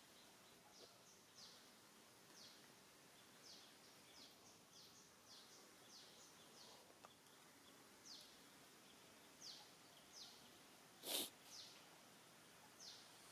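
Quiet outdoor ambience with faint, short, high chirps that fall in pitch and repeat about once or twice a second, typical of birds calling. About eleven seconds in there is one brief, loud, noisy burst.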